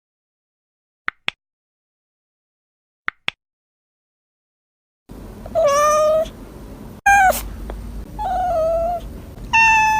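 Domestic cat meowing four times in a row, long drawn-out meows starting about five seconds in. Earlier, two pairs of very short high chirps break the silence about a second and three seconds in.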